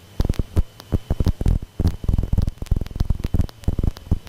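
Cessna 150/152 cockpit noise heard through the aircraft intercom in flight: engine and airflow noise coming through as an uneven, throbbing hum of rapid low pulses, with a thin steady high whine over it.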